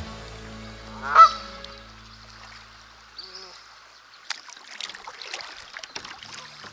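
A single loud, honking bird call about a second in, over fading background music, followed by light water splashes and trickling.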